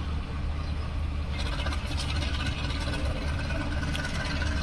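Passenger train noise: a steady low diesel drone with rattling and small clicks that grow louder about a second in.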